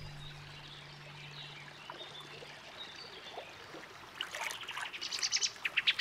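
A songbird calling in a rapid run of short, high, falling notes, starting about four seconds in and growing louder.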